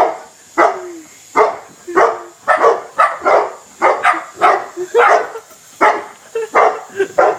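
Dog barking loudly and excitedly at a hovering helicopter, a steady run of sharp barks about two a second.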